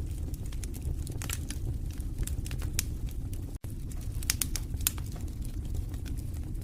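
Wood fire burning in a fireplace: a steady low rumble of flames with irregular sharp crackles and pops from the burning logs. The sound drops out for a split second about halfway through.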